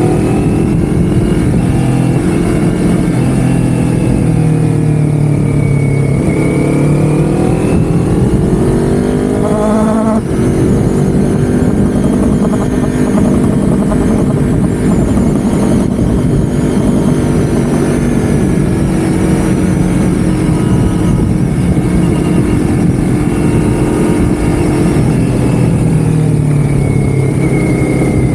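Vehicle engine running while under way, with heavy rumble underneath. Its pitch climbs for a few seconds, drops sharply about ten seconds in as it shifts gear, then holds fairly steady.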